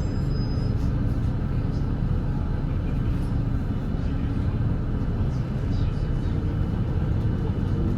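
Volvo B8RLE double-decker diesel bus engine running steadily under way, a constant low rumble heard from inside the bus.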